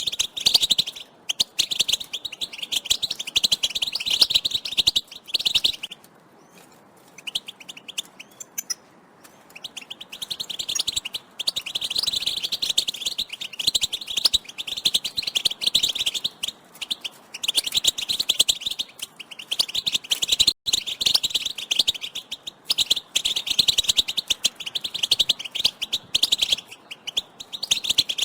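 A group of European goldfinches chattering, a rapid, dense twittering of excited contact calls, with a lull of a few seconds about a quarter of the way in before the chatter resumes.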